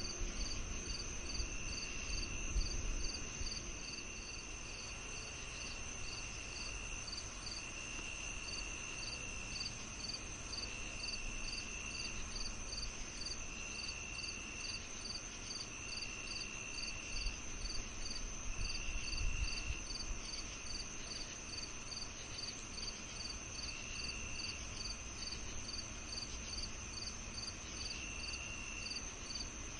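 Evening chorus of crickets and other insects: a steady high trill, an even chirp about two to three times a second, and a lower buzzing call lasting about a second and repeating every couple of seconds. A low rumble swells about two seconds in and again just before twenty seconds.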